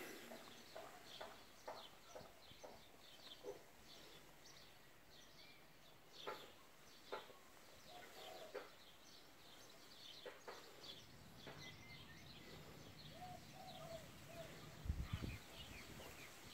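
Faint, scattered short bird chirps with a few soft clicks, and a brief low rumble about fifteen seconds in.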